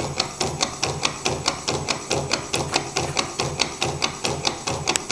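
Gamma-type V twin-cylinder Stirling engine running, its mechanism clicking about four to five times a second over a low hum that pulses in step.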